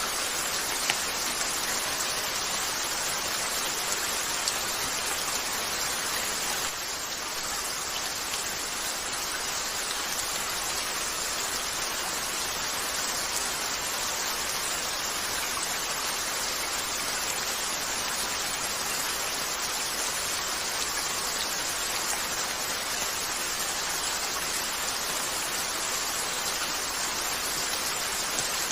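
Steady rain falling on a window, an even hiss, with a few isolated sharp crackles from a wood fire.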